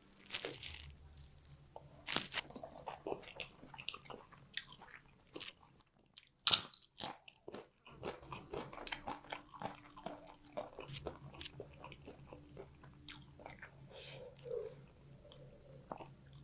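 Close-miked eating of fish curry and rice: steady chewing and wet mouth sounds with many short crunchy bites. A few loud, sharp crunches come just under halfway through, over a faint steady hum.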